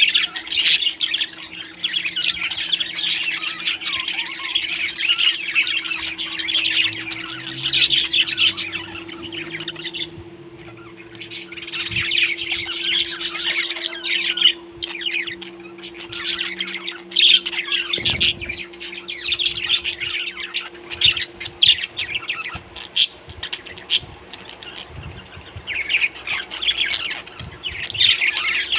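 Pet parrots chattering with dense, rapid chirps and squawks in stretches of several seconds, broken by short pauses. A steady low hum runs underneath, and there is one sharp click about two-thirds of the way through.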